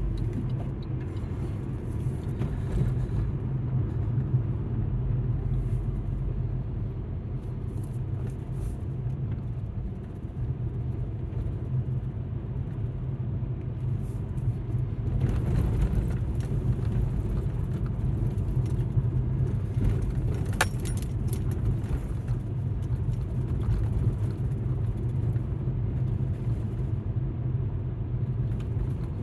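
Alfa Romeo MiTo heard from inside the cabin while driving: a steady low engine and road rumble, with one sharp click about twenty seconds in.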